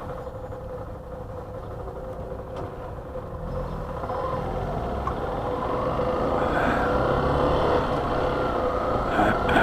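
Yamaha motorcycle running while riding in traffic, its engine mixed with wind and road noise on the action camera, getting louder from about four seconds in as it picks up speed. A short knock near the end.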